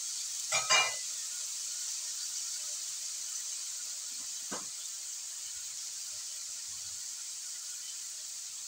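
Chicken feet sizzling steadily in a steel wok over a gas flame, a high, even hiss. Two sharp knocks come close together near the start, and a fainter one about halfway through.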